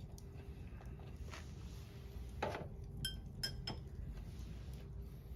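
Metal utensils clinking against cookware: a knock about halfway in, then a quick run of sharp, briefly ringing clinks, over a steady low rumble.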